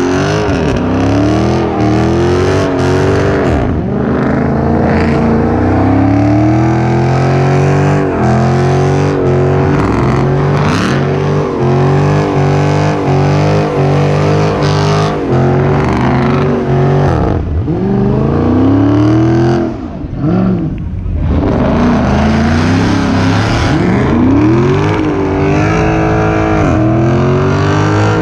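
Car engine revving hard and held at high revs, its pitch dropping and climbing back up again and again, with a brief lull about twenty seconds in.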